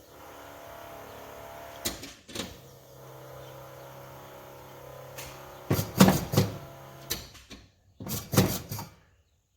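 Carbureted engine being cranked over by its starter to check fuel delivery at the carburetor: a steady whirring hum for several seconds, then a few loud clunks near the end.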